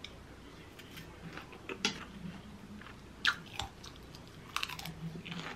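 Close-up chewing of a mouthful of crisp lettuce and raw onion salad, with sharp crunches every second or so, the loudest just past halfway.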